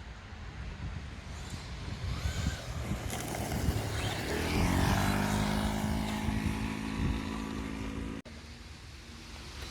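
Brushless electric RC car speeding past, its motor whine swelling as it approaches and gliding down in pitch as it passes about halfway through. The sound cuts out abruptly for an instant near the end.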